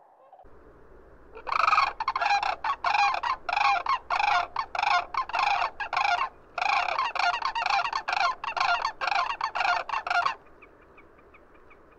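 Sandhill crane giving its loud, rolling, rattling bugle call: a quick run of repeated notes, a brief break about six seconds in, then a second run that stops about ten seconds in.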